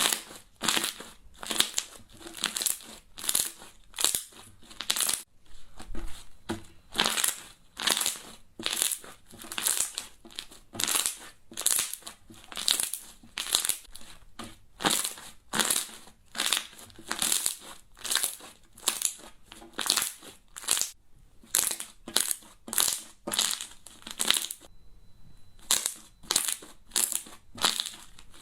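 Crunchy slime being squeezed and pressed by hand, giving a steady run of crackling crunches about two a second.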